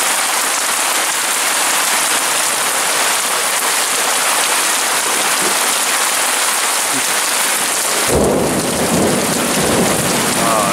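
Heavy rain pouring down in a steady hiss. About eight seconds in, a low rumble of thunder starts under the rain.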